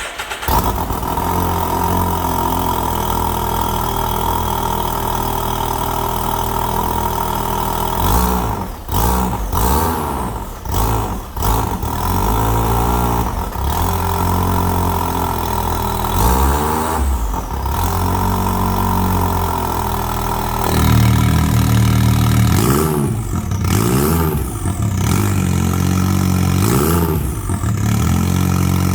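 Can-Am Maverick X3 Turbo's three-cylinder turbo engine firing up and idling, exhaust running through a Silber Racing electric cutout. From about eight seconds in it is blipped in short revs again and again, each rising and falling back to idle.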